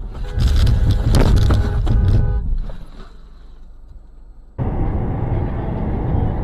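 Car collision picked up by a dashcam: about two seconds of clattering, crunching impacts with a steady ringing tone over them. After a quieter stretch the sound cuts abruptly to steady engine and road rumble.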